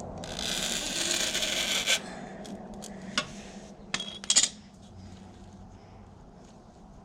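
A metal tool scraping hard against a stuck motorcycle oil filter for about two seconds, followed by a few sharp metallic clinks. The filter is too tight to turn.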